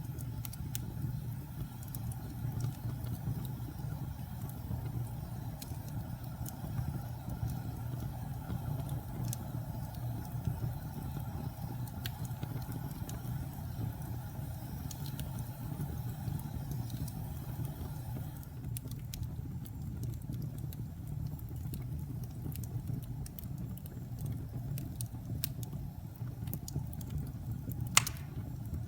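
Wood fire crackling, with scattered sharp pops over a steady low rumble, and one loud pop near the end.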